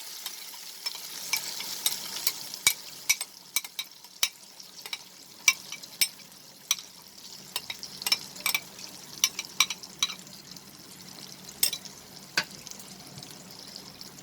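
Metal spatula stirring in a karai, tapping and scraping the pan in many sharp irregular clicks, over oil sizzling with frying garlic. The sizzle is strongest at first and grows fainter.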